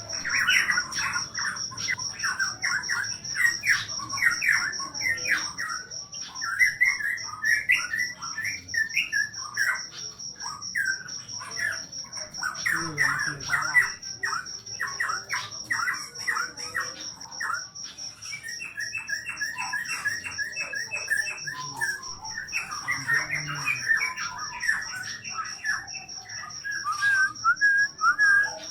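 A Papuan cucak pantai (cupan) songbird singing long runs of quick chattering notes with short pauses. Behind it a cricket chirps in one unbroken high trill.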